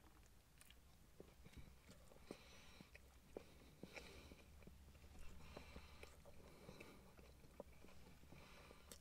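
A person chewing a mouthful of chicken burger: faint, with small irregular mouth clicks several times a second.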